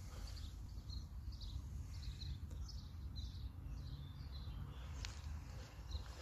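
Small birds chirping repeatedly in short high notes, several a second, over a steady low rumble.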